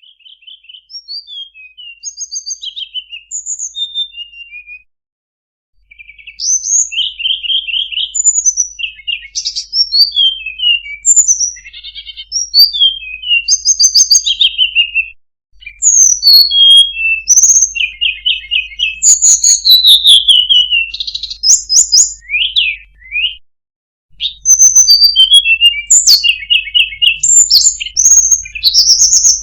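A tledekan gunung bird singing a long, varied song of quick whistled and chirped notes that slide up and down, with short trills and a few brief pauses between phrases.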